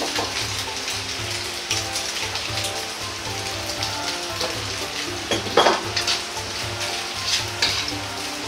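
Diced pork belly sizzling steadily as it fries in its own rendered fat in a wok, being cooked until crisp. A metal ladle scrapes the wok once, loudly, a little past halfway.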